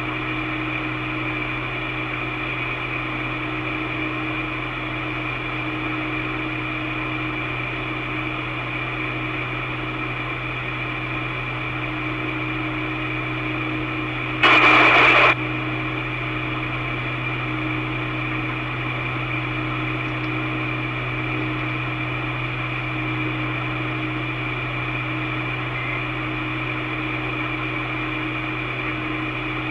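Steady hum and hiss of an old recorded two-way radio channel with nobody transmitting, broken about halfway by a loud burst of static lasting about a second.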